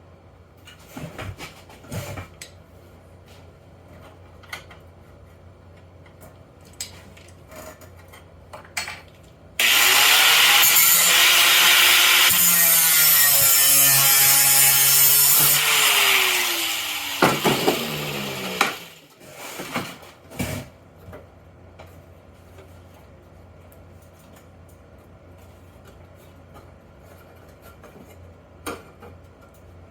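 Handheld power tool cutting into the metal engine door: a loud run of about six seconds starting about ten seconds in, its pitch sagging under load, then shorter bursts that wind down. Faint clicks and taps of handling the part come before and after.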